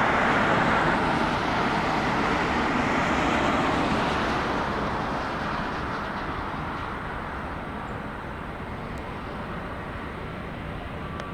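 Jet airliner's engine noise, a steady rush that is loud at first and fades away gradually over several seconds as the aircraft moves off.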